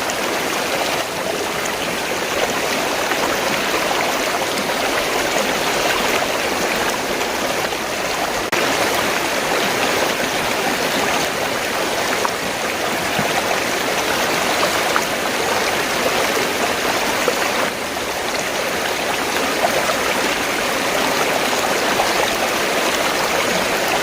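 River water rushing and babbling steadily, an even, unbroken wash of flowing water.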